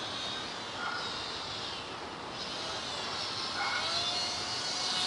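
Small electric motor and propeller of a WLToys F949 Cessna-182 RC plane whining in flight, its pitch rising and falling with throttle.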